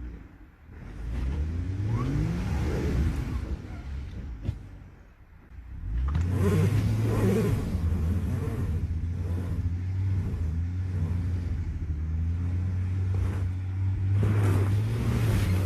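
Jeep Gladiator's engine revving, rising in pitch over the first few seconds and falling away, then running steadily from about six seconds in.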